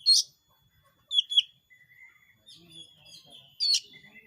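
Oriental magpie-robin (kacer) singing in a lively, aggressive song: loud sharp notes at the start, a quick pair about a second in and another near the end, with softer warbling phrases in between.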